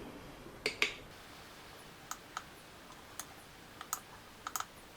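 Scattered light clicks and taps, about ten in all and unevenly spaced, as small items are handled and set down on a workbench.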